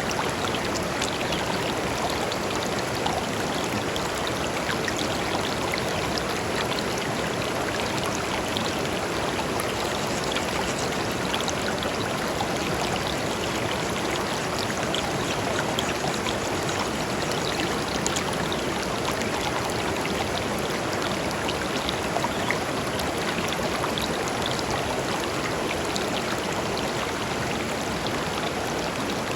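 A shallow river flowing steadily over stones, a continuous rushing with fine splashing and trickling throughout.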